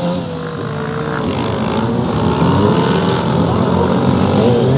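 Motorcycle engines running and revving, their pitch rising and falling, with a rev climbing near the end.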